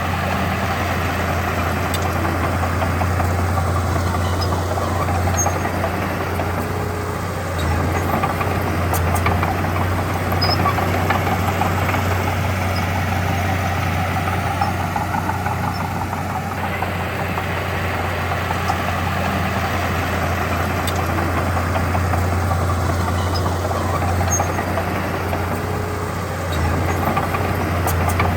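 Diesel engine of heavy earthmoving machinery running steadily, its level dipping briefly about seven and a half seconds in and again a couple of seconds before the end.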